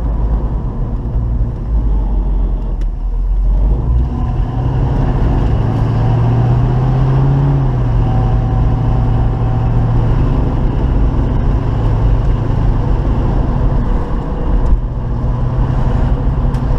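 A 1972 Chevy Nova's 350 small-block V8 running under way, heard from inside the car along with road rumble. The engine note climbs for a couple of seconds about five seconds in, then drops back and holds steady.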